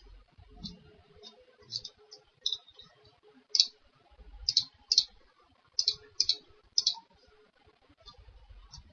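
Computer mouse buttons clicking about a dozen times at an uneven pace, some clicks close together in pairs.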